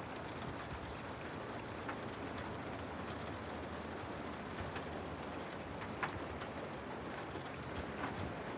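Steady rainfall: an even hiss of rain, with single drops ticking sharply now and then and one clearer drop hit about six seconds in.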